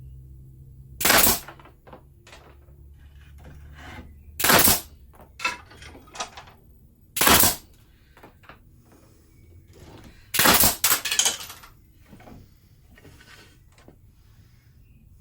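Pneumatic denailer (nail punch) firing, a loud sharp blast with each shot as it punches nails out of timber. There are five shots, the first three about three seconds apart and the last two in quick succession, with quieter knocks from handling the tool and wood between them.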